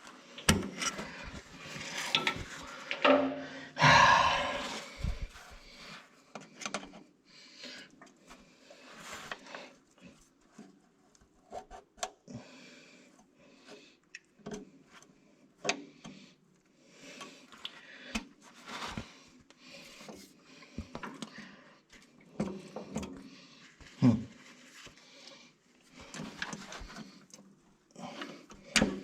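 Irregular metal clicks, knocks and scraping as parts are worked by hand on a Massey Ferguson 35 tractor's range box (transfer case), the loudest clatter in the first few seconds.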